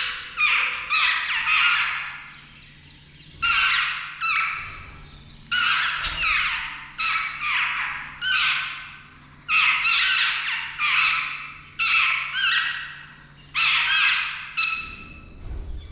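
Jungle babblers giving harsh, rasping calls, each falling in pitch, in quick clusters of two to four that repeat every couple of seconds.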